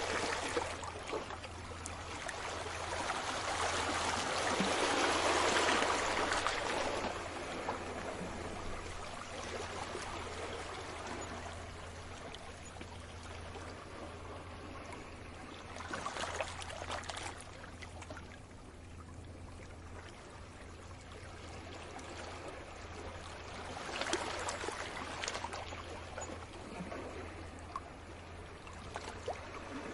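Sea waves washing onto the shore: a rushing hiss that swells and ebbs, loudest with a big wave about five seconds in and smaller washes later on.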